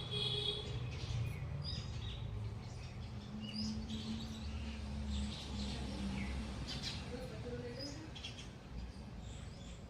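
Several small birds chirping, with short calls and quick falling whistles scattered throughout, over a steady low rumble.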